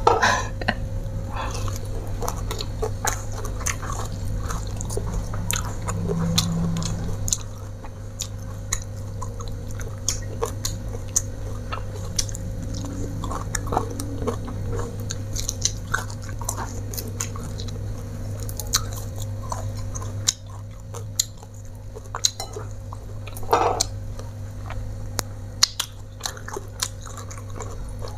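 Close-miked chewing and biting of a mouthful of rice with fried fish, sambal and raw greens, full of small wet clicks and crunches, over a steady low hum.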